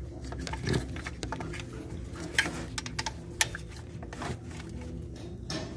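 Irregular sharp metallic clicks of a quarter-inch ratchet and socket backing out a loosened bolt, over a steady low hum.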